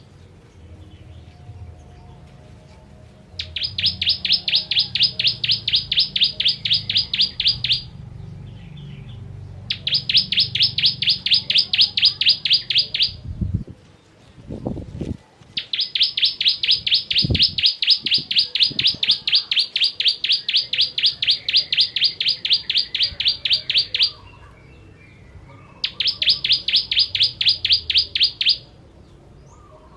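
Ciblek kristal, an Indonesian prinia, singing in four long runs of fast, evenly repeated sharp notes with short pauses between them; the longest run lasts about eight seconds in the second half.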